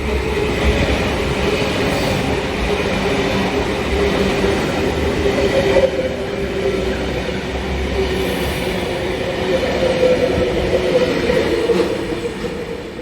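Electric suburban passenger train pulling out of the platform, its motors whining steadily over the rumble and clatter of wheels on the rails, fading away near the end.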